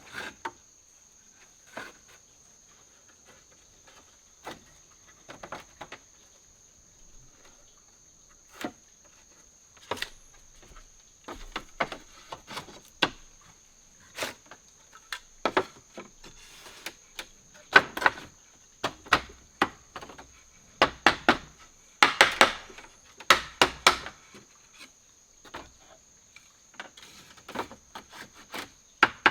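Insects give a steady high-pitched drone throughout, with irregular sharp knocks and clicks over it that come thick and loud for a few seconds past the middle.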